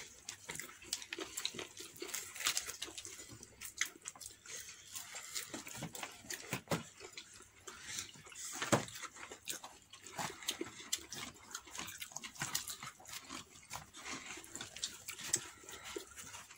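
Eating crispy fried chicken close to the microphone: irregular crunches of the breaded coating and chewing sounds, with one louder crunch a little before the middle.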